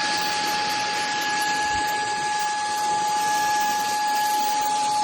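CAMIY cordless stick vacuum running steadily: an even rush of air with a constant high motor whine.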